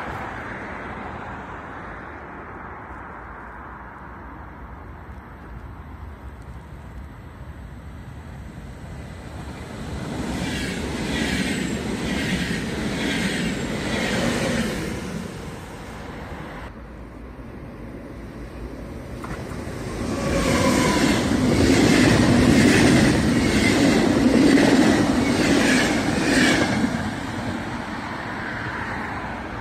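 Train passing on the railway line, its wheels clicking rhythmically over rail joints over a heavy rumble. It gets loud twice, about ten seconds in and again about twenty seconds in, then fades.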